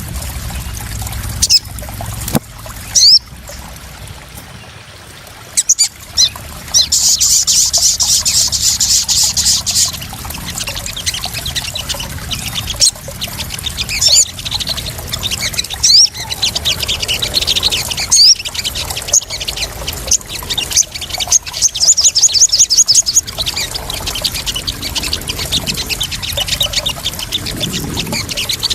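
Sogon (crimson sunbird) calling in sharp, high chirps, with two fast trills, over the continuous sound of splashing, trickling water.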